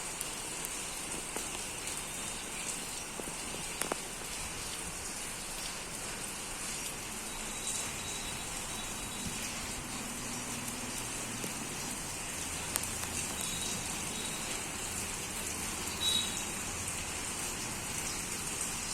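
Steady heavy rain falling and pattering on surfaces, with a couple of sharper drop taps.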